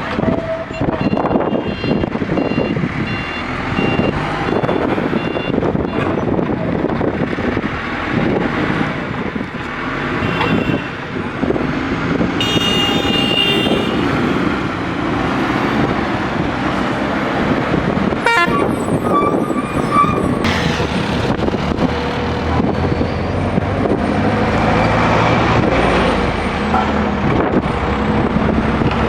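Diesel engine of a SANY SAG160-5 motor grader running steadily. A short high-pitched horn-like tone sounds near the middle, and a sharp click follows a few seconds later.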